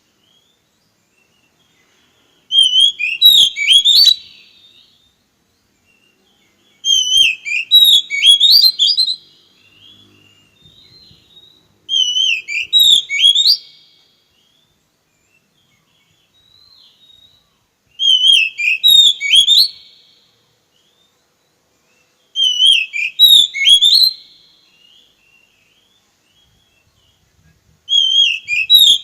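A songbird singing the same short whistled phrase over and over: six bursts of quick up-and-down notes, one about every five seconds, with quiet gaps between them.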